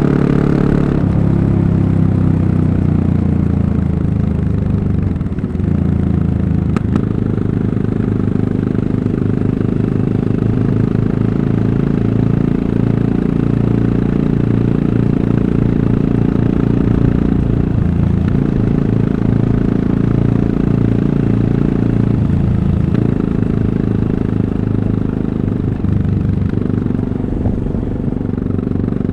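Yamaha MT-03 660 single-cylinder engine running at low, fairly steady revs. Its pitch shifts briefly several times.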